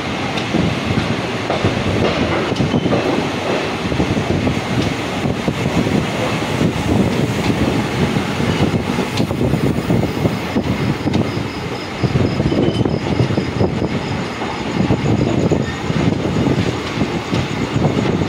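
Passenger train coach running at speed through a station, heard at its open door: steady rumble of wheels on the track with clickety-clack over rail joints and points.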